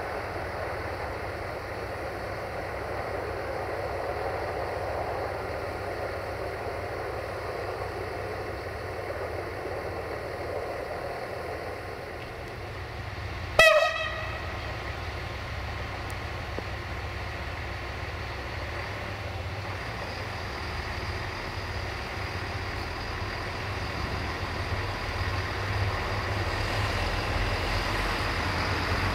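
Siemens Desiro diesel multiple unit approaching with a steady rumble, sounding one short horn blast about halfway through. Its engine and wheel noise grows louder near the end as it draws close.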